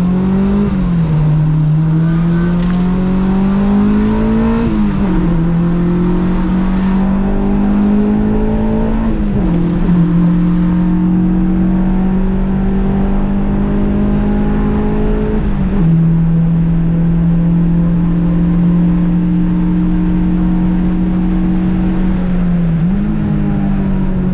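Honda Civic track car's engine pulling up through the gears, revs rising and falling back at each upshift, about three times in the first ten seconds. It then runs at nearly steady revs for a long stretch, with a small drop about two-thirds of the way in, before one more rise and drop near the end.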